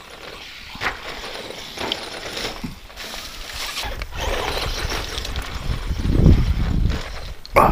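ECX Circuit 2WD electric RC stadium truck running over a rough dirt track: tyres scrabbling, and the chassis knocking as it bounces over bumps. A sharp knock comes near the end, and a low rumble builds up from about halfway through.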